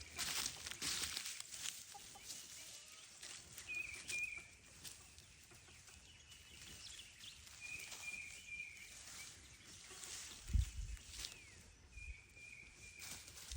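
Quiet farmyard ambience with a bird giving a short, high, wavering call about every four seconds, three times in all. A low dull thump comes a little after ten seconds in.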